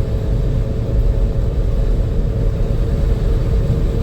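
Steady low rumble of a vehicle on the move, engine and road noise with a faint steady hum.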